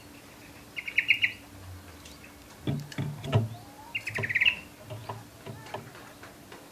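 Canary giving two short, rapid trills, about a second in and again about four seconds in, with a few sharp knocks and clicks in between.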